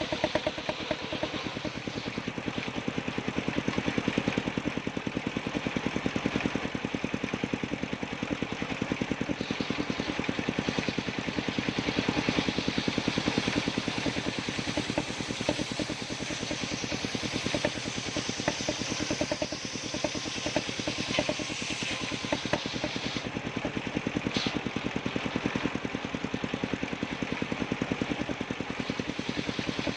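Engine-driven circular sawmill running steadily, with a rapid, even engine beat throughout.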